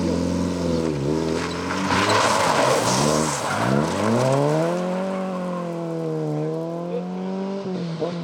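Rally car engine revving hard, its pitch falling and climbing again several times as the driver lifts off and accelerates, with a rush of noise about two seconds in.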